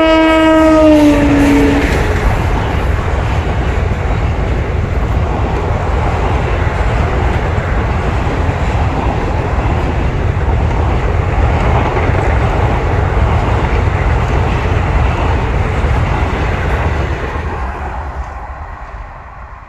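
A passing train locomotive's horn sounds for about two seconds, its pitch dropping slightly as the locomotive goes by. Then the coaches of a passenger express rush past at speed with a loud, steady rumble of wheels on rail, which fades near the end as the last coach clears.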